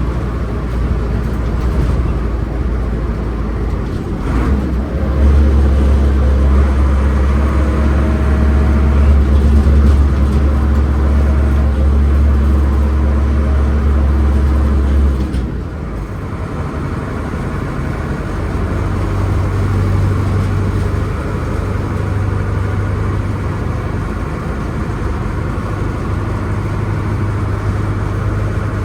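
Mercedes-Benz 811D fire truck's diesel engine running. It gets louder and deeper about five seconds in, holds for about ten seconds, then drops back and settles to a steady hum.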